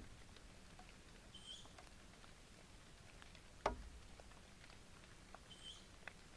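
Faint scratching and ticking with one sharper knock a little past halfway, and two brief high squeaks, one early and one near the end.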